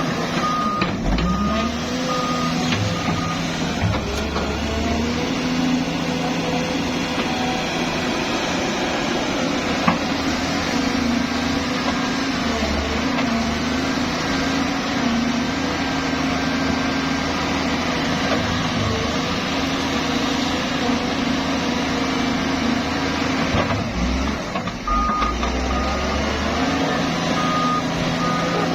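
Heavy diesel engine of a Doosan 210W wheeled excavator working, its speed rising and falling with the load. A reversing alarm beeps repeatedly for the first couple of seconds and again near the end.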